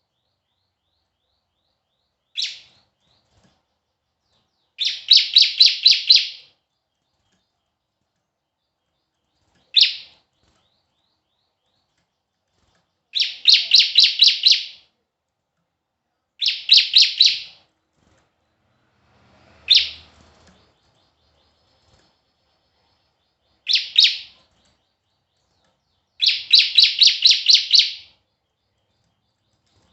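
A songbird singing loud, high phrases every few seconds. Single sharp notes alternate with quick runs of about six to eight rapid repeated notes, with silence between the phrases.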